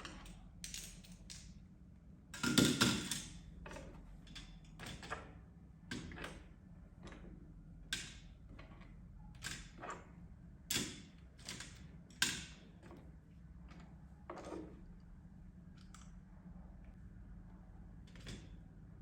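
Irregular light knocks and clicks, about a dozen, the loudest a heavier thump between two and three seconds in, over a steady low hum.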